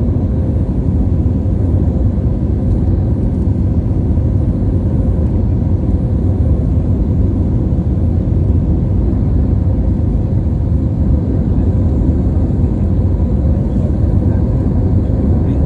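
Steady low rumble of airliner cabin noise, the jet engines and airflow heard from inside the passenger cabin, with a faint steady hum above it.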